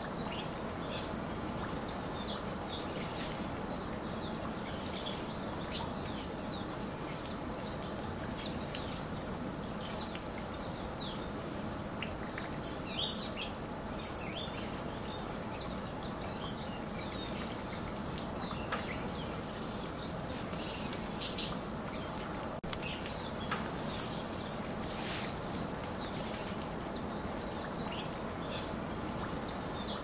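Small birds giving many short, high chirps, with a louder cluster about two-thirds of the way through. Underneath is a steady background hiss, and an insect buzzes high in repeated phrases of about three seconds with short breaks between them.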